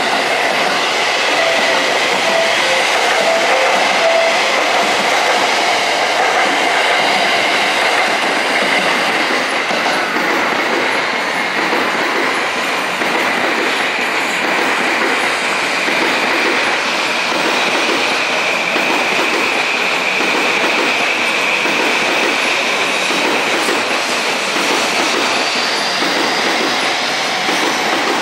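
JR West 285 series sleeper electric train passing, a long steady rumble of wheels on the rails with clickety-clack and a thin high tone running through it.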